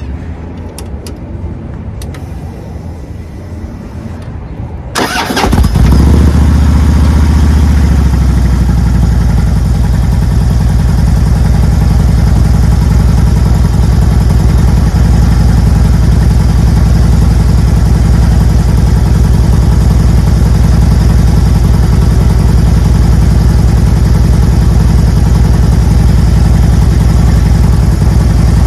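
A 2010 Harley-Davidson Road Glide Special's Twin Cam 96 V-twin is started about five seconds in: a brief crank, then it catches, runs a little faster for a couple of seconds and settles into a steady idle. It is being run to circulate the fresh oil just added during an oil change.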